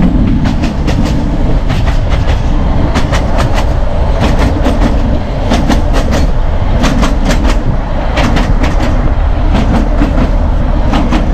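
Narrow gauge train coaches running on the track, heard on board: a steady, loud rumble with clusters of sharp wheel clicks every few seconds, the clickety-clack of wheels passing over rail joints.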